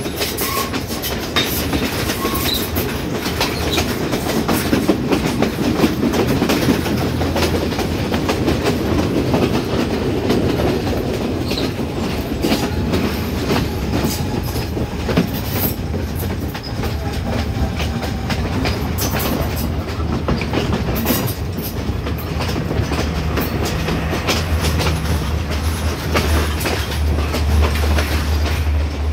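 Passenger train running along the track, heard from an open window of a moving coach. The wheels clack over the rail joints: many sharp clicks over a steady rumble, with a low hum growing stronger near the end.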